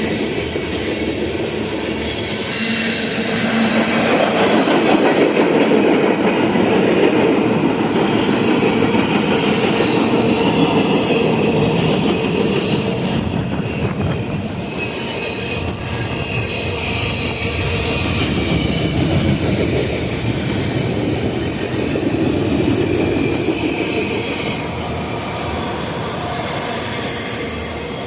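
Freight train cars rolling past: a steady rumble of steel wheels on the rails with a faint high squeal of wheel flanges, swelling a little about four seconds in.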